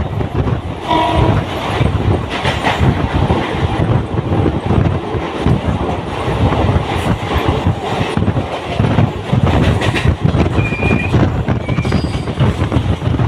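A train running past at close range: a loud, continuous rumble of wheels on track with clickety-clack over the rail joints. A short horn blast sounds about a second in, and a brief high wheel squeal comes near the end.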